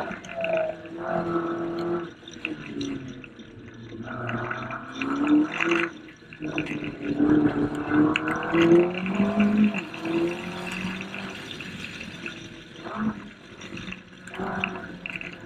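McLaren 12C's twin-turbo V8 running hard, its pitch repeatedly climbing and dropping as the revs rise and fall, with a short sharp noise about six seconds in and another about thirteen seconds in.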